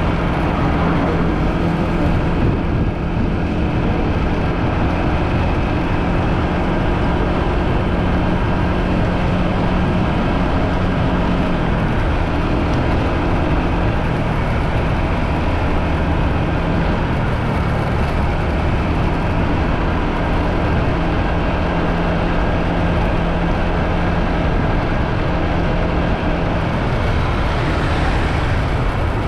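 Motorbike engine running at a steady cruising speed, with loud wind rushing over the microphone while riding. The engine note shifts slightly about twelve seconds in.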